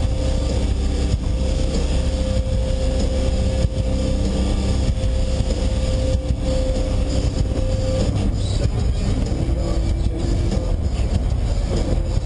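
Lamborghini Murciélago's V12 engine and road noise heard from inside the cabin while driving at highway speed, a steady drone. About eight seconds in, its main tone steps down in pitch.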